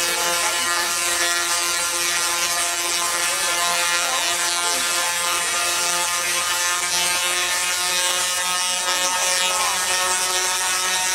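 Tesla-coil lightning machine firing arcs: a continuous harsh electrical buzz with crackle, steady in pitch and level.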